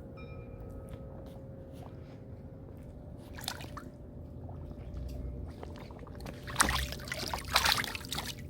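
Water sloshing and splashing over a steady low background noise, with a burst of louder splashing about two-thirds of the way in.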